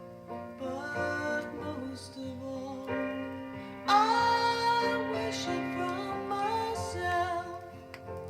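Vinyl record playing a slow ballad: a woman sings over solo piano, her voice coming in loudly on a held note about four seconds in. A few faint clicks of record surface noise come near the end.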